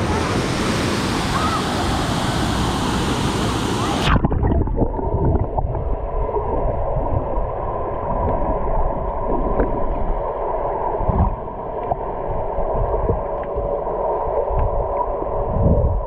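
Pool water and surf, then about four seconds in the sound suddenly turns muffled as the microphone goes under the water, leaving a low underwater gurgling with faint bubble ticks.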